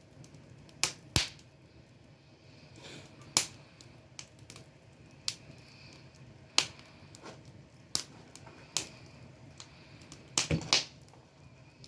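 Wood campfire burning, with sharp crackles and pops at irregular intervals over a low steady hiss of the flames.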